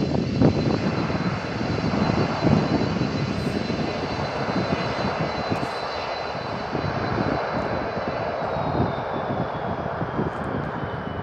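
Aircraft engines running with a steady high whine over a broad rush; the whine drops a little in pitch about eight seconds in.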